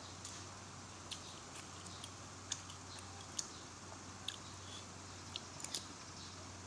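A person eating rice porridge close to the microphone: chewing with a scattering of small, sharp wet mouth clicks and lip smacks. A steady low hum runs underneath.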